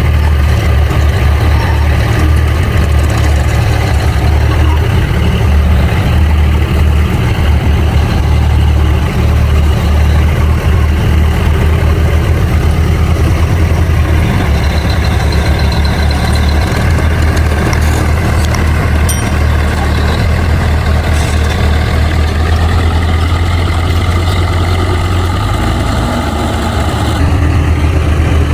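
Bulldozer's diesel engine running under load, a steady heavy low rumble; its pitch rises a little about twenty-two seconds in.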